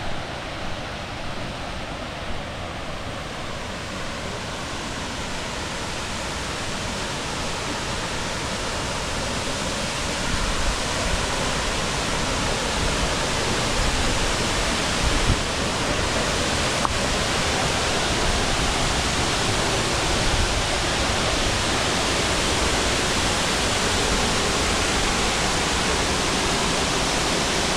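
Waterfall's steady rushing, growing louder and brighter over the first half, then holding steady.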